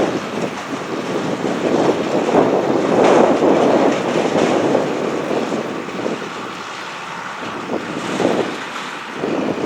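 John Deere 9660STS combine harvester running in the field, heard as a steady machine noise. Wind is buffeting the microphone, so the level swells and dips every second or so.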